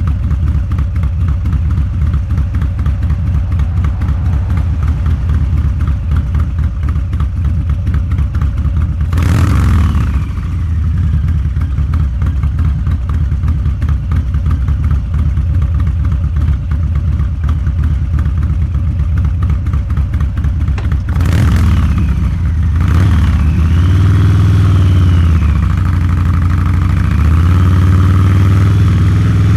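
Harley-Davidson Low Rider's 129-cubic-inch V-twin running through a Two Brothers Racing exhaust while riding, a steady pulsing beat. A quick surge of throttle comes about nine seconds in and again past twenty seconds, after which the engine's pitch rises and falls with the throttle.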